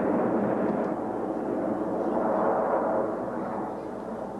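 Jet demonstration aircraft passing overhead: a steady rushing jet roar that swells about halfway through and fades toward the end.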